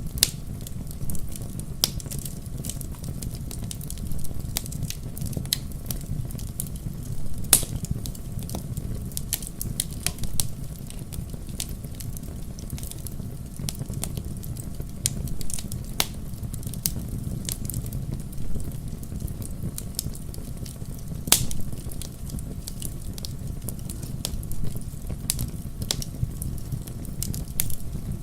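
Wood fire crackling in a fireplace: a constant scatter of small snaps and ticks over a steady low rumble, with a few sharper pops, the loudest about a quarter of the way in and again about three quarters through.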